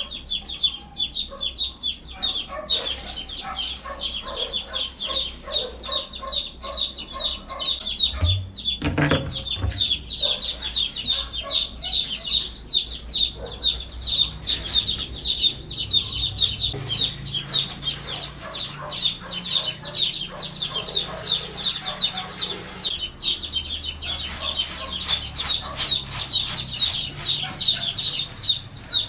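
Chickens clucking and peeping, many high, short calls overlapping continuously.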